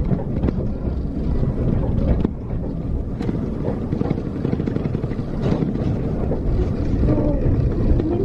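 Steam train running, a steady low rumble with wind on the microphone and a few sharp knocks.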